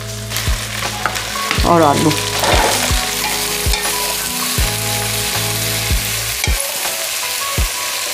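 Purple beans (lobia), potato, carrot and onion sizzling in hot mustard oil in an aluminium pressure-cooker pot. A wooden spatula stirs them in regular strokes, scraping against the pot. A steady low hum runs underneath.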